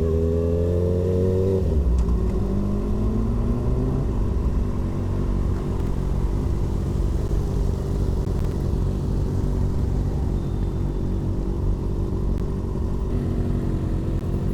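Kawasaki ZX-6R 636's inline-four engine running on the move. Its pitch climbs for the first second and a half, then it settles into a steady low drone.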